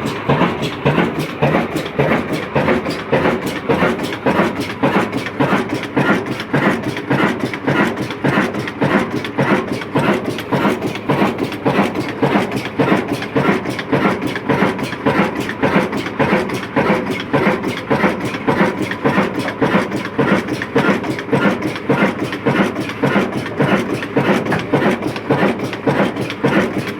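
Kala Desi 22 hp diesel engine, a Ruston-type single-cylinder stationary engine, running steadily with an even, rhythmic beat.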